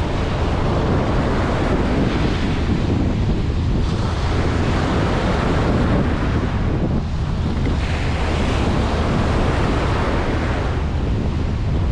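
Ocean waves breaking and washing up on a beach, a steady surf roar that swells and eases, with wind rumbling on the microphone.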